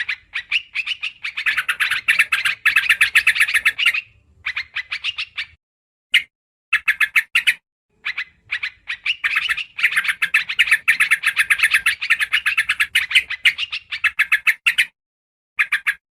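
Yellow-vented bulbul (trucukan) lure recording: rapid chattering calls of quick repeated notes, about eight a second, in phrases of one to four seconds separated by short silent gaps.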